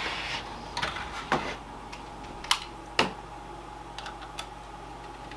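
Scattered sharp plastic clicks and knocks from a keyboard and mouse being handled and their cables plugged into the PC, the two loudest clicks about half a second apart near the middle, over a steady low hum.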